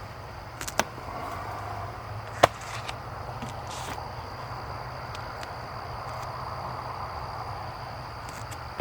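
Two sharp knocks, about one second and two and a half seconds in, the second much the louder, over a steady background with a faint high steady tone.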